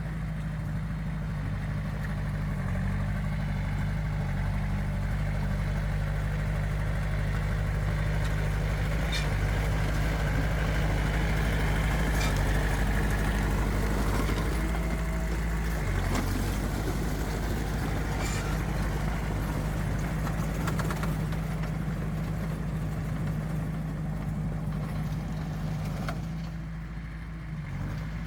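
Heavy diesel engine of earthmoving machinery running steadily at low revs, with a few sharp clicks or clanks now and then. The engine note shifts slightly about halfway through.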